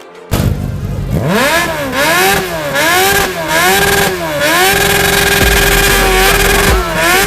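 Motorcycle engine revved repeatedly, the pitch rising and falling in about six blips, then held at steady revs for a couple of seconds before dropping near the end.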